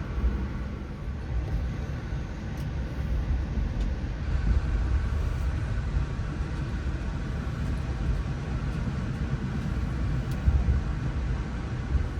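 Amtrak passenger train in motion, heard from inside the car: a steady low rumble of the running gear on the rails, with a few faint clicks and knocks.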